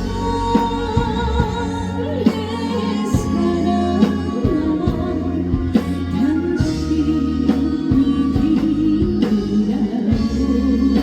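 Live band music: a wavering lead melody with vibrato over sustained bass notes and regular drum hits.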